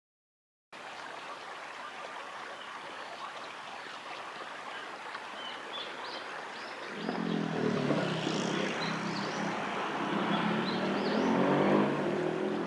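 Steady outdoor ambience with scattered short, high bird chirps, joined about seven seconds in by the low hum of an engine that grows louder, like a passing motor vehicle.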